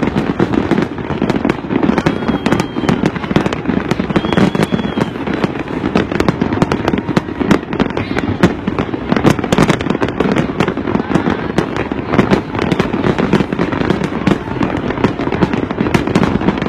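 Aerial fireworks display: a dense, continuous run of bangs and crackles, with crowd voices underneath.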